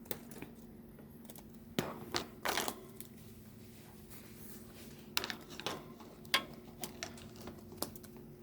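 Scattered sharp clicks and taps, about nine spread irregularly over several seconds, over a steady low hum.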